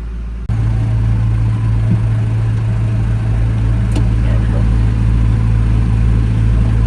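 Massey Ferguson 6150 tractor's diesel engine running steadily with a deep, even drone. It jumps abruptly louder about half a second in.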